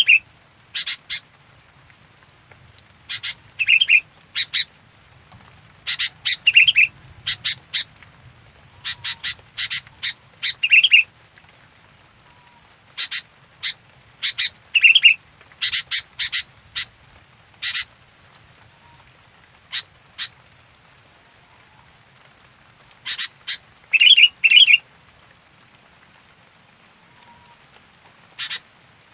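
Sooty-headed bulbul (kutilang) calling: bursts of quick, sharp chattering notes, several seconds apart.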